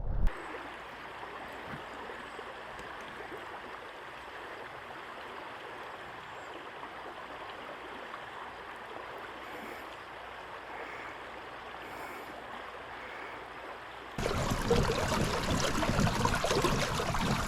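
River water flowing and rushing steadily. About fourteen seconds in it jumps suddenly to a much louder, closer rush of water.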